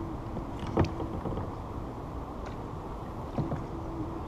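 Kayak on the water: a steady low rumble of water and wind against the hull, with a sharp knock about a second in and a smaller knock near the end.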